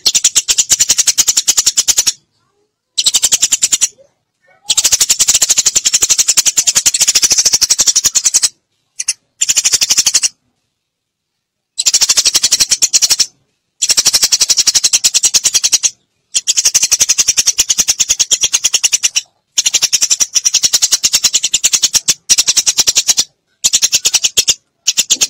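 Recorded lure call of the Eurasian tree sparrow: loud, rapid runs of high chattering chirps used to draw sparrows in for trapping. The chirping comes in bursts of one to four seconds, cut apart by short silent gaps.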